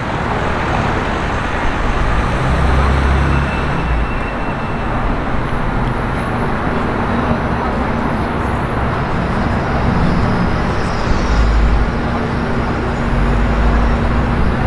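Road traffic on a busy city street: motor vehicles running past in a steady wash of noise. A low engine rumble swells a few times, and a faint steady hum is heard through most of it.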